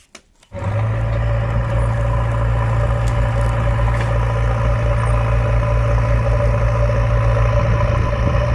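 A vehicle engine running steadily at an even idle. It starts about half a second in and holds without changing.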